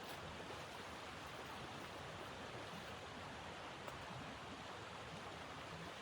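Steady blizzard wind, an even rushing noise with no separate events standing out.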